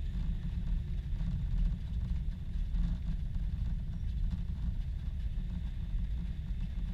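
Boeing 747-400 airliner noise: a steady low rumble with a faint higher hiss, even throughout.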